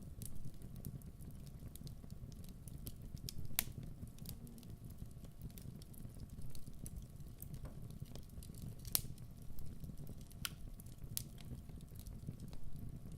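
Wood fire burning with a steady low rumble and irregular sharp crackles and pops, a few louder snaps standing out.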